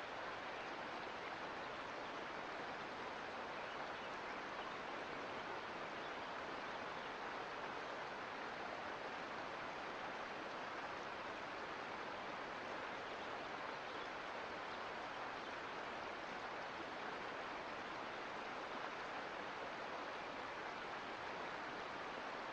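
Mountain creek water flowing, a steady, even rush with no change.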